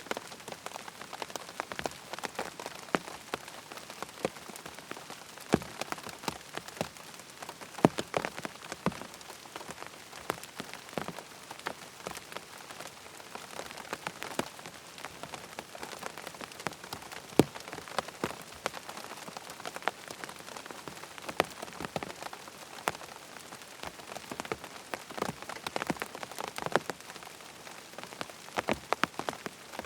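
Steady rain pattering on a tent's fabric, with many distinct drops striking close by over a constant hiss of rainfall.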